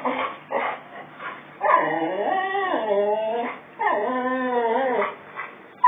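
Boxer dog vocalising: a few short yips, then two long whining calls that waver up and down in pitch, the first about two seconds long and the second a little over a second.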